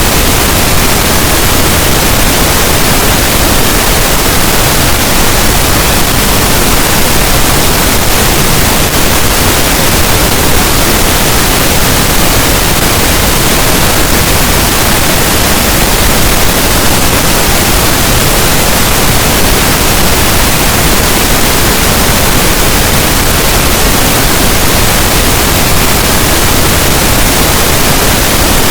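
Loud, steady pink noise: an even hiss across all pitches, weighted toward the low end, with no changes.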